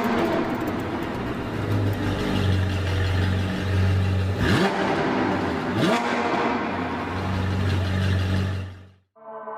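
Car engine revving: a steady low drone broken by three quick rises in pitch, cutting off suddenly near the end.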